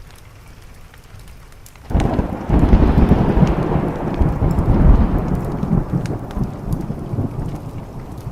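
A thunderclap breaks suddenly about two seconds in and rolls on in a long, loud rumble that slowly fades, over a steady patter of rain and small, sharp crackles of a wood fire.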